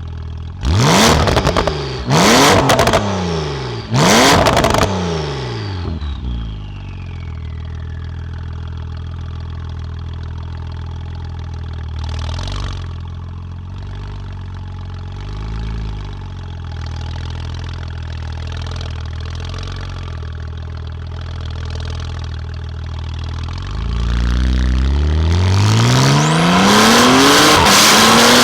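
Porsche 911 Carrera (991.2) twin-turbo flat-six through a titanium exhaust: three sharp throttle blips in the first few seconds, with a high whine falling away after them. It then idles steadily, and near the end it pulls away, the engine note rising.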